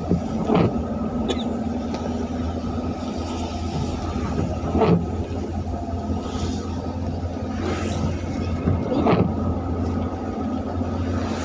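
Motor vehicle driving on a rain-wet road: a steady engine drone over tyre and rain noise, with a few short knocks.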